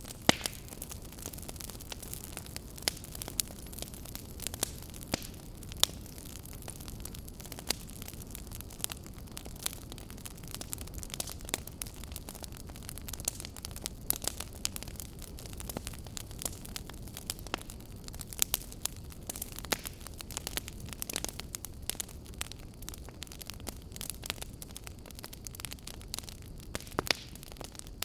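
Wood fire burning, its logs crackling with frequent sharp, irregular pops over a low, steady rumble of flame.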